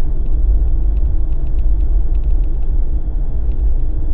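Steady low rumble of a Jeep driving on a snowy road, engine and tyre noise heard from inside the cabin, with faint scattered ticks.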